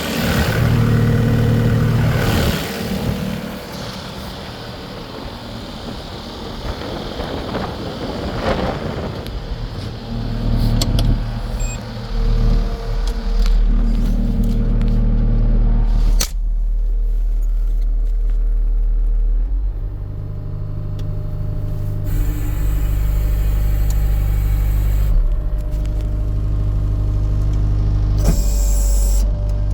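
Case SV280B skid steer's diesel engine running and changing speed several times, with a sudden drop about sixteen seconds in before it settles into a steadier run.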